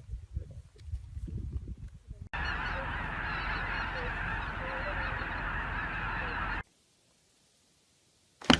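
A dense, loud clamour of many birds calling at once, lasting about four seconds and cutting off abruptly. Before it come some low rumbling noises, and at the very end a brief loud sound.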